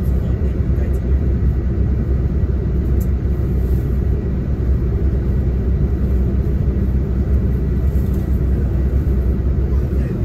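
Coach bus running, heard from inside the cabin: a steady low engine and road rumble with no clear gear changes or revving.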